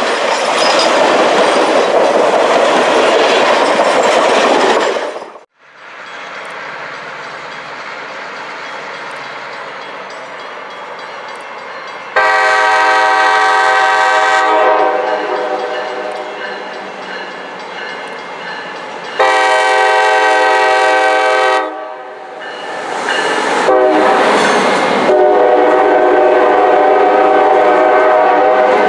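A train passing close, loud and rumbling, for the first five seconds. Later the train's horn sounds the grade-crossing signal: two long blasts, one short, then a long one held to the end.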